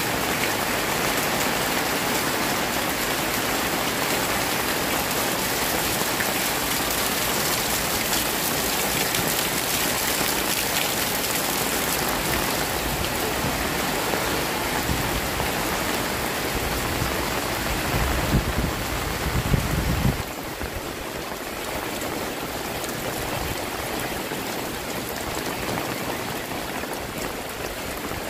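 Heavy rain pouring down steadily on a flooded alley. A low rumble runs under it for a few seconds, and about twenty seconds in the rumble cuts off and the rain sounds softer.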